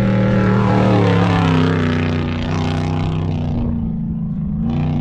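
Off-road vehicle engine running hard, its pitch easing down over the first few seconds and then holding steady.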